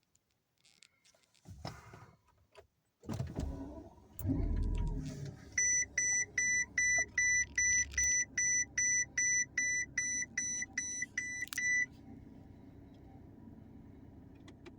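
Cold start of a 2007 Mercedes-Benz S600's twin-turbo V12: after a few clicks, the starter cranks about three seconds in, and the engine catches with a brief rev flare, then settles to a steady idle. Over the idle, a dashboard warning chime beeps about two and a half times a second for some six seconds.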